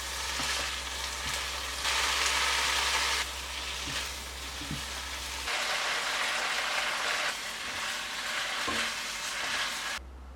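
Food sizzling in a hot frying pan: a steady frying hiss that jumps louder and softer several times as shots change.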